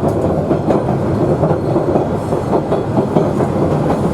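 Queensland Rail 2000 class diesel rail motor running along the track, heard from on board: a steady rumble of the railcar in motion with the wheels clicking over the rail joints.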